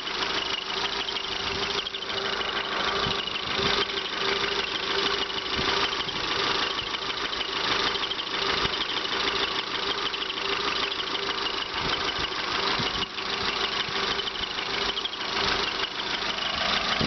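1997 Honda Accord's four-cylinder, 16-valve engine idling steadily, with a fine rapid ticking over a constant hum. The engine doesn't sound that bad.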